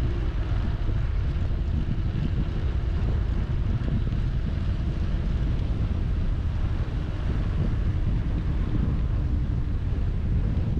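Wind buffeting the microphone of a camera riding along on a moving bicycle: a steady low rumble with some hiss above it.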